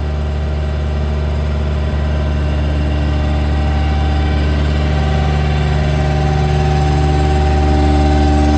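Cummins ISB diesel engine of a Freightliner M2 septic truck running steadily at idle, with a low hum; a couple of higher steady tones come in about halfway through.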